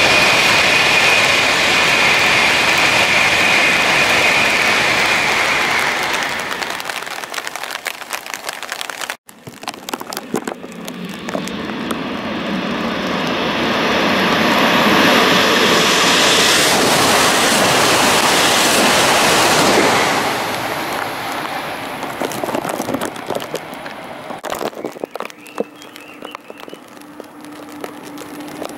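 Shinkansen train passing at high speed, a loud rush of air and wheel noise that fades away over the first several seconds. After a sudden break, a second passing train's rush of noise swells to a peak about two-thirds of the way through, then dies away.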